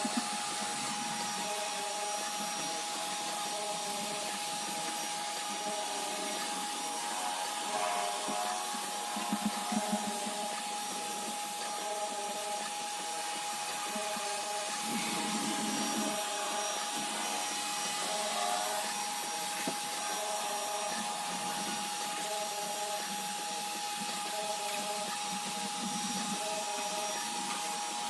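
iRobot Roomba robot vacuum running, a steady motor whine over brushing and rubbing noise, with a few brief louder scrapes about a third of the way in.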